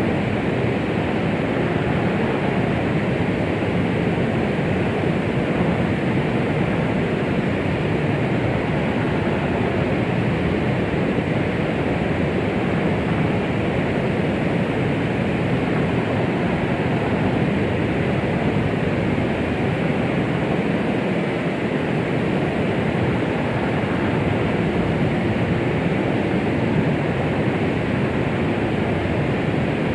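Steady white noise meant as a womb sound for soothing a baby: an even rushing hiss, fuller in the lows and mids and soft in the highs, with no pulse or heartbeat.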